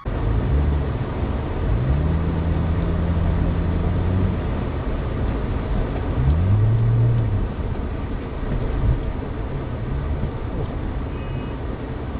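Vehicle engine running and revving: its pitch rises, holds and falls twice, over steady road noise.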